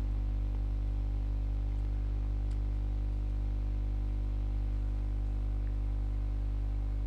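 Steady electrical mains hum, a low buzz with its overtones, over faint hiss; nothing else happens.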